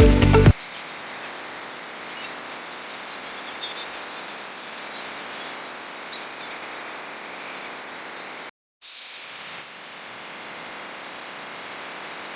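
Steady rushing noise of a waterfall, with a couple of faint bird chirps. Electronic music cuts off in the first half second, and the sound drops out briefly about eight and a half seconds in.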